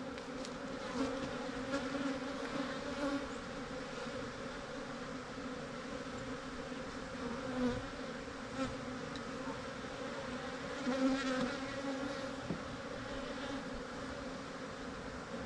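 Dense buzzing of a large honeybee colony swarming around an opened hive, a steady hum with a few faint knocks of hive equipment.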